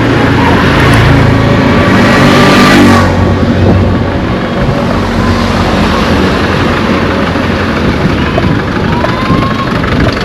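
A motor vehicle's engine passing close by, loudest about one to three seconds in, then giving way to steady street noise.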